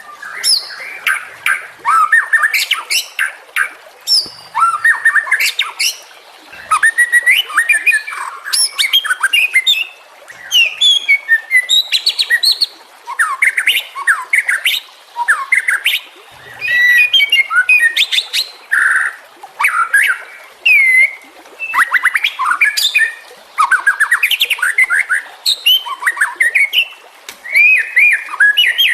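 White-rumped shama (murai batu) singing: a continuous run of varied song phrases, clear whistles and quick up-and-down glides mixed with rapid clicking and chattering notes, each phrase a second or two long with brief pauses between.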